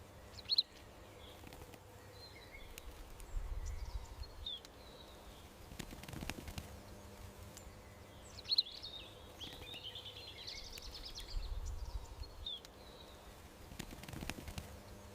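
Small garden birds chirping in short, scattered calls, with a busier run of chirps about two-thirds of the way through. A faint steady hum and two brief low rumbles sit underneath.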